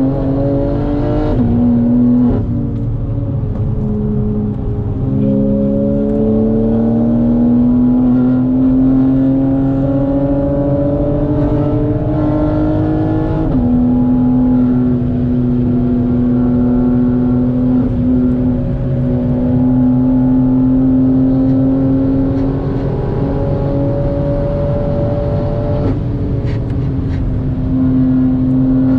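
BMW G80 M3's twin-turbo straight-six, heard from inside the cabin under hard acceleration on track. Its pitch climbs slowly through each gear and drops suddenly at upshifts, about two seconds in, around halfway and near the end.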